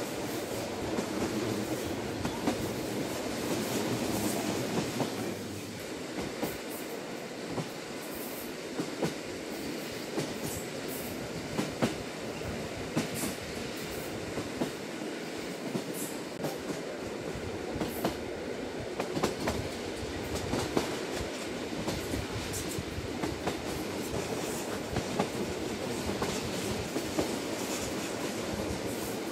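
Inside a JR Hokkaido Lilac limited express carriage running at speed: a steady rumble of wheels on rail, with short sharp clicks and ticks from the track at irregular intervals.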